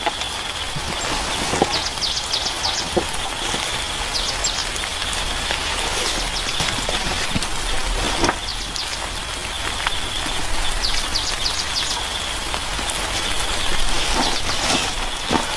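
Steady rain falling with scattered drops pattering, over a high, steady insect-like drone and short, rapid chirping trills every few seconds.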